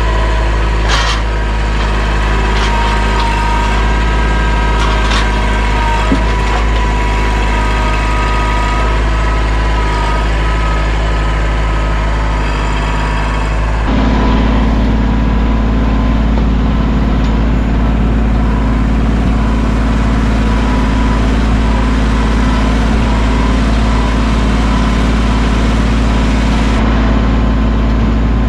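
Mahindra 1626 sub-compact tractor's three-cylinder diesel engine running steadily, with a few sharp knocks in the first several seconds. About halfway through, the engine note changes abruptly and gets slightly louder.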